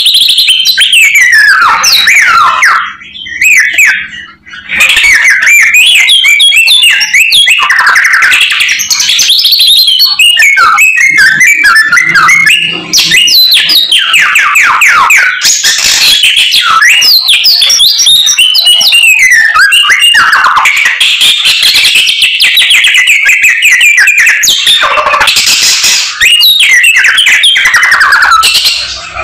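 A samyong songbird singing loudly and continuously, a fast, varied run of whistles, chirps and glides packed with mimicked phrases (its 'isian'), broken by short pauses a few seconds in and near the end.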